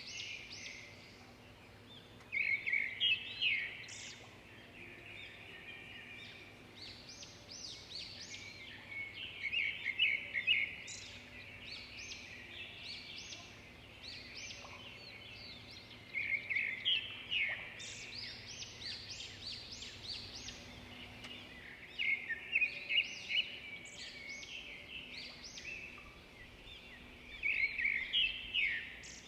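Birds singing and chirping, in bursts of quick, high notes and trills every few seconds, over a faint steady low hum.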